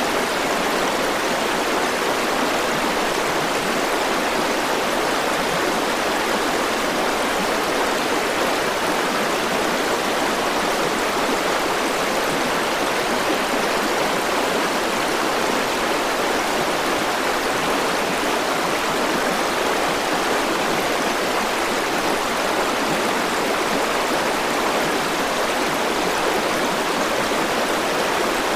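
River water rushing and babbling over rocks in a steady, unbroken flow.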